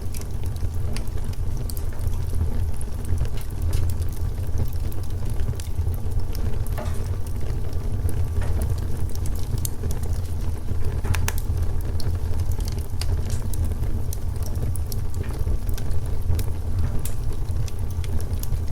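Wood fire crackling and popping in a fireplace, with irregular sharp snaps over a steady low rumble of the burning fire. A couple of brief hisses come around the middle.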